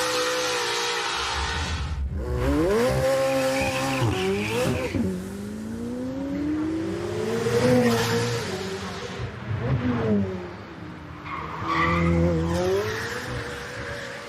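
Race car engine revving hard and dropping back several times as it shifts gears, with tyre squeal.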